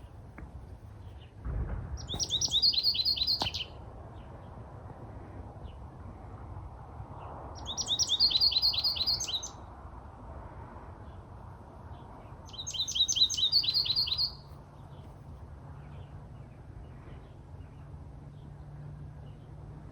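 American goldfinch singing: three short phrases of quick, high twittering notes, each about a second and a half long and several seconds apart.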